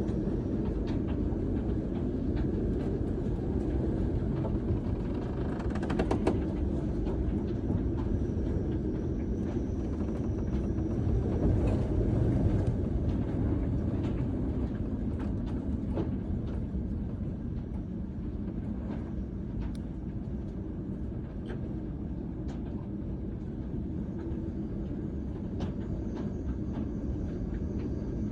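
Storm wind and sea aboard a sailing yacht: a steady low rumble with wind buffeting the microphone and a few scattered knocks.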